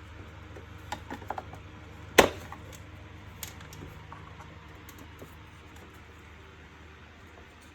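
Vacuum cleaner parts being handled and fitted together: a few light clicks, then one sharp snap or knock a little over two seconds in, followed by a few faint ticks.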